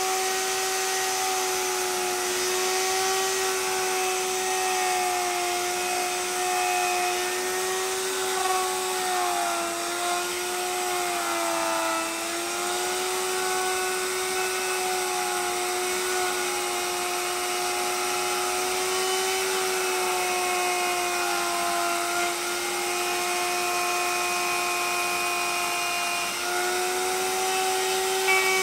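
Handheld power tool running steadily with a high-pitched whine, its pitch sagging briefly as it takes load about ten seconds in and again a little after twenty seconds.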